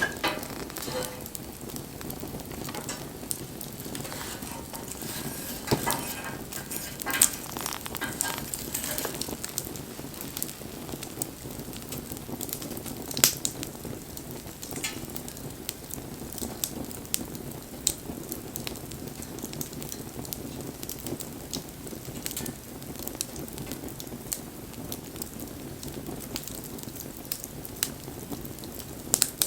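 Wood bonfire crackling: irregular pops and snaps over a steady hiss, with a few sharper, louder snaps.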